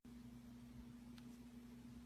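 Near silence: faint room tone with a steady low hum and one faint tick about a second in.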